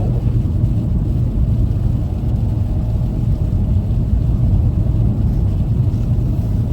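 Steady road and engine rumble inside a car's cabin while driving at highway speed.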